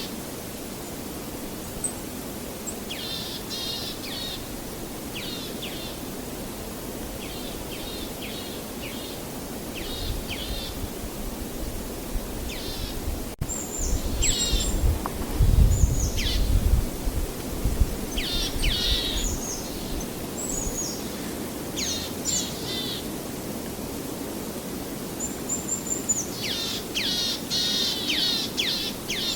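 Songbirds chirping and singing in short runs of quick, high notes, thicker near the end, over a steady background hiss. A low rumble swells for a few seconds around the middle and is the loudest thing heard.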